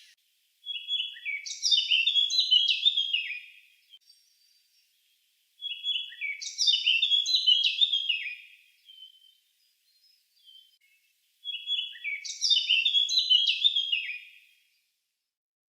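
A songbird singing the same phrase three times, each phrase about three seconds long with a few seconds' pause between.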